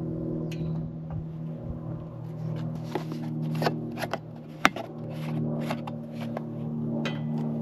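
Irregular clicks, taps and light clanks of hand tools working on metal parts while a sawmill's blade guide rollers are adjusted, over a steady low hum.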